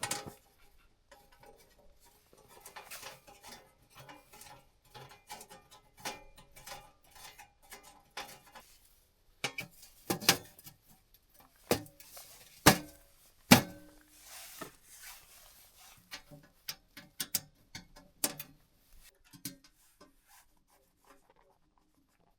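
Irregular clicks, knocks and rustles of small objects being handled, with a few louder sharp knocks near the middle.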